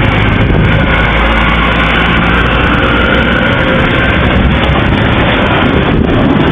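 A vehicle's engine running under a loud, steady rushing noise.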